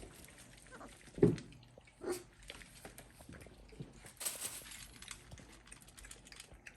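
Goldendoodle puppies giving two short cries about a second apart, with light rustling and small clicks as they move about.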